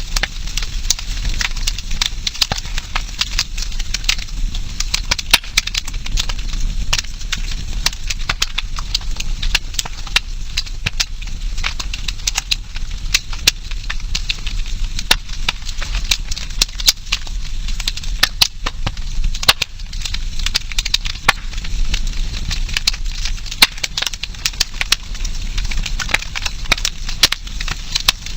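Wood campfire crackling, with sharp snaps and pops coming irregularly several times a second over a steady low background.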